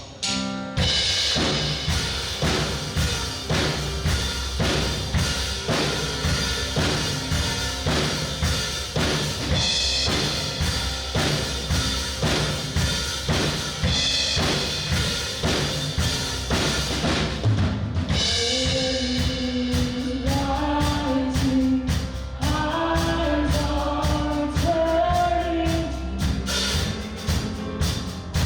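Worship band playing a song with a full drum kit driving a steady beat; about 18 seconds in the texture thins briefly and a clear melody comes in over the drums.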